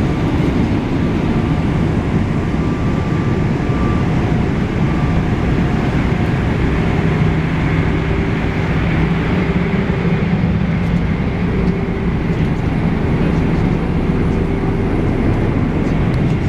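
Steady in-flight cabin noise of a Boeing 777-300ER, a constant rush of airflow and engine sound, with faint steady hums beneath it.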